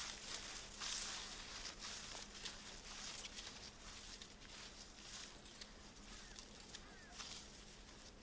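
Faint crunching steps through snow, with crisp crackles and swishes that grow quieter as the steps move off.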